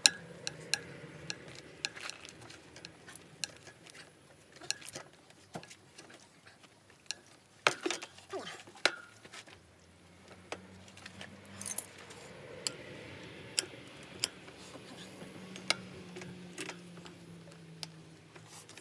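Irregular small metallic clicks and clinks of hand tools and small metal parts being handled, with a louder cluster of knocks about eight seconds in.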